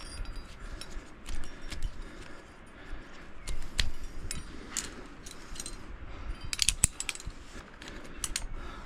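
Metal climbing gear, carabiners and quickdraws on a harness, clinking and jangling irregularly as the climber moves, with a cluster of sharper clinks near the end, over low rumbling handling noise.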